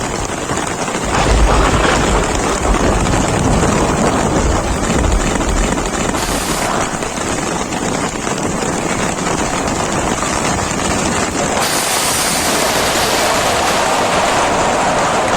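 Steady downpour of rain with wind buffeting the microphone in low rumbling gusts during the first few seconds; the hiss grows brighter about twelve seconds in.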